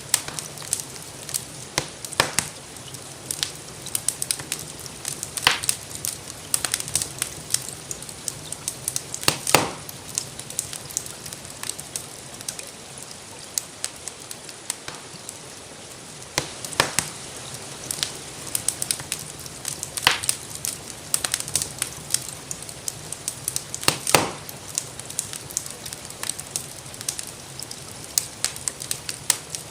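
Wood fire crackling in a fireplace, with frequent small snaps and a few louder pops, over a steady soft hiss of rain.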